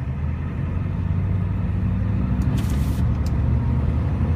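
A Ford E-350's 7.3-litre turbo diesel V8 pulling the van away from a stop, its low running note building louder as it accelerates. A brief hiss comes about two and a half seconds in.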